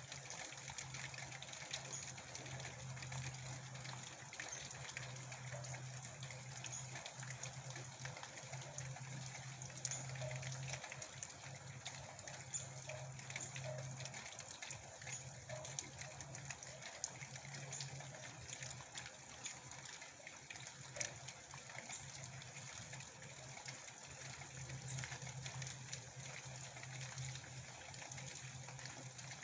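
Steady rain falling, an even hiss dotted with many small drop ticks. A low steady hum fades out and back in several times.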